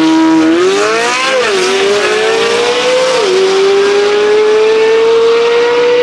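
Corvette Z06's V8 with a $10,000 aftermarket exhaust launching down the drag strip at full throttle. The engine note climbs steeply, drops sharply at an upshift about a second and a half in, climbs again and drops at a second upshift about three seconds in, then rises slowly in the next gear.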